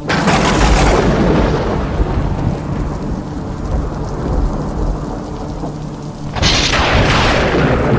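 Thunderstorm: a thunderclap right at the start and another about six and a half seconds in, each a sharp crack fading into a long low rumble, over steady rain.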